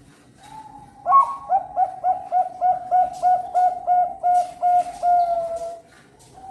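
Bangkok-line zebra dove (perkutut) cooing: a soft opening note, then a fast run of about thirteen clipped coos, roughly three a second, ending in one longer drawn-out note.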